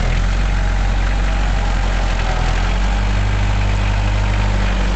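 Tractor engine running steadily at idle with a low, even drone that shifts slightly in pitch a little over halfway through.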